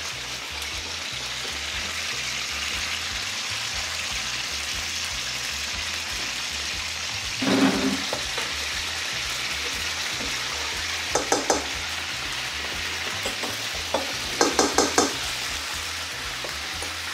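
Chicken deep-frying in a pan of hot oil, a steady sizzle. A short low sound comes about halfway through, and two quick runs of sharp metallic taps, a spoon against a steel bowl, come later on.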